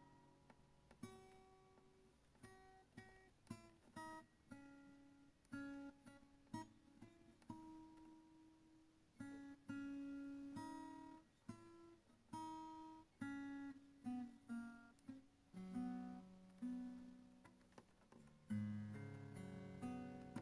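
Background music: an acoustic guitar playing single plucked notes, with fuller strummed chords near the end.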